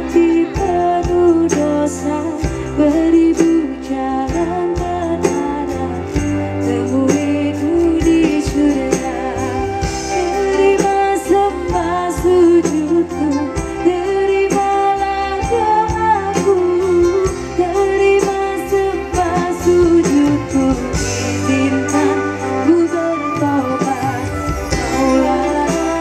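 Live band music with a woman singing the lead melody over bass and a steady drum beat.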